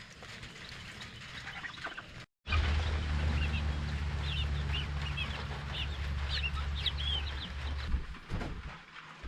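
Chickens clucking and chirping. After a sudden cut about two seconds in, a steady low hum runs under many short high chirps, fading near the end into a few knocks.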